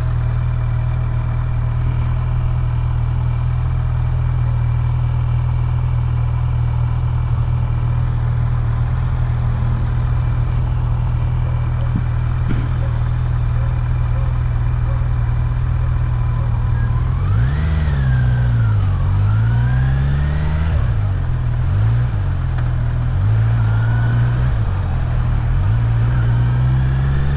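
Kawasaki Z900's inline-four engine running at a steady speed over wind noise, then its revs drop and climb again several times in the second half.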